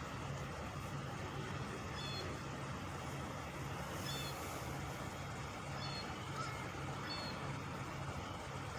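Industrial engine running on high, a steady low drone with a slight pulsing, with short high chirps a few times over it.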